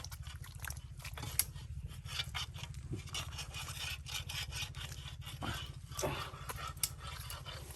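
Irregular scraping and rubbing with many small clicks over a low steady rumble.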